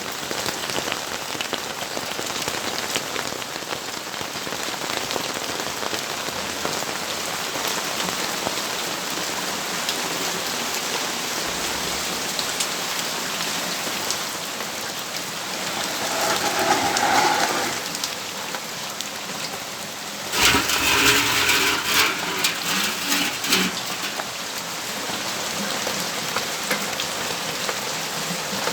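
Steady rainfall falling on surfaces around a home balcony, an even patter throughout. About halfway through it swells briefly, and a little later comes a louder, choppy stretch of a few seconds before the steady rain settles back.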